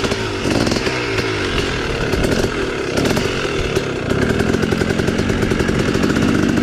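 Dirt bike engine revving up and down as the throttle is worked, then holding steadier, higher revs from about four seconds in.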